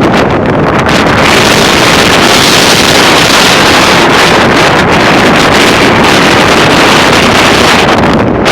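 Strong wind gusting at 40 to 60 mph, blowing hard across the microphone with a loud, even rushing roar. A gust builds about a second in and eases near the end.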